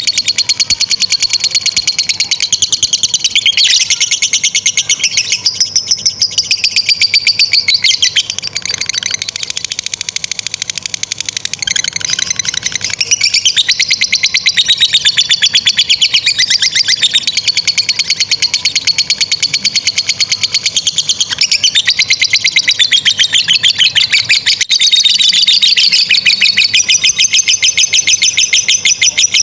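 Lovebird ngekek: a long, rapid, shrill chattering trill that runs on almost without a break, dipping somewhat softer for a few seconds about a third of the way in.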